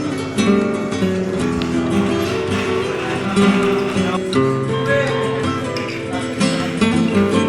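Acoustic guitar music, strummed and plucked, with a new note or chord every fraction of a second.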